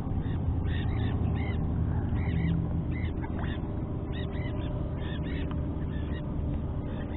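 Bird calls: short chirps in quick groups of two or three, repeating every half second to a second, over a steady low rumble.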